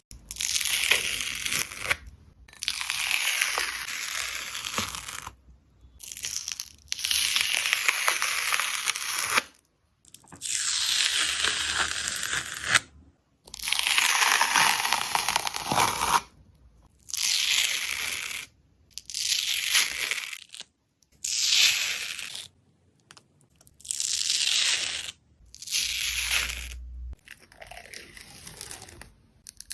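A dried skin on a slime being torn and peeled, about a dozen hissing tears of one to three seconds each with short pauses between them.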